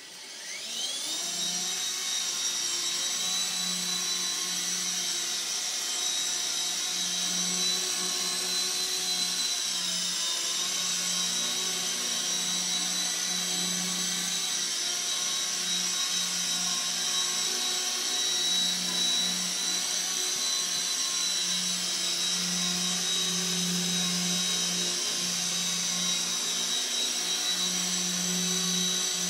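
Small electric RC helicopter (CB180Q) spooling up over the first second, then running steadily with a high motor whine and a rotor hum that swells and dips as the throttle is worked to hold a hover.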